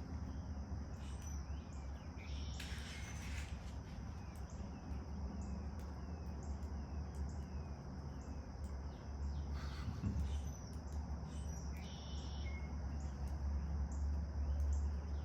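Small birds chirping in short, repeated falling calls, over a steady high-pitched drone and a low rumble.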